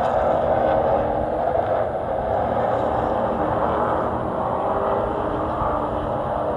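Race truck's engine running hard at racing speed in a short-track truck race, a steady, unbroken engine and road noise with no lift or revving change.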